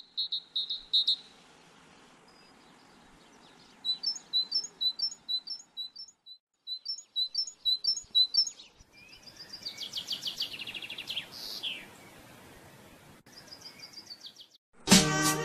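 Small birds chirping: short, high chirps repeated several times a second in runs broken by brief pauses, with one call sliding downward about two-thirds of the way through.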